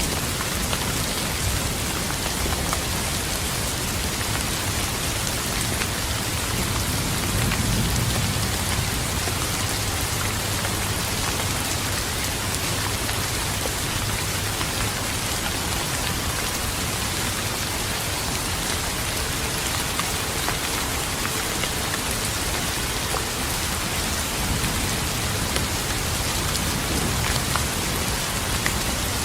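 Steady rain falling and pattering on surfaces, with a low rumble of distant thunder swelling briefly about a quarter of the way in.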